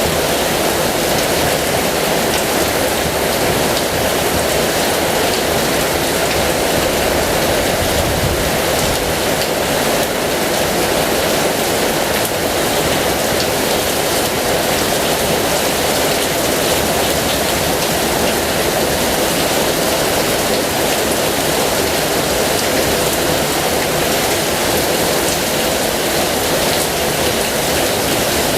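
Heavy rain falling steadily, an even rush of water with faint scattered drop ticks and no let-up.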